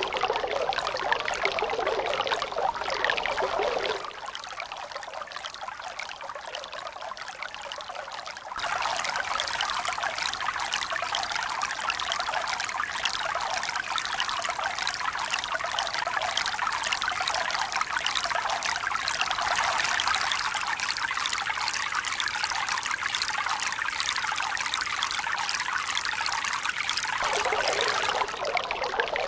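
Steady running water, a trickling, pouring flow with no surge of waves. It turns abruptly quieter and thinner about four seconds in, fuller and louder again about eight seconds in, and deeper shortly before the end.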